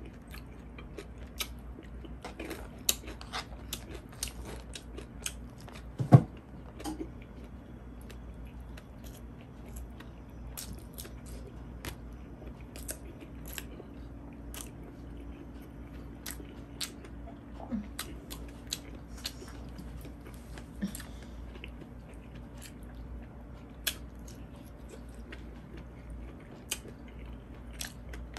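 Close-miked mouth sounds of someone eating: chewing and biting with crisp crunches and small clicks scattered throughout. One loud thump about six seconds in.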